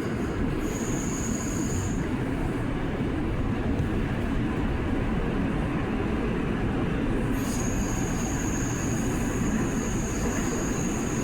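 R179 subway train running between stations: a steady rumble of wheels on rail. A thin high-pitched squeal from the wheels comes in briefly about half a second in, and again from about seven seconds in.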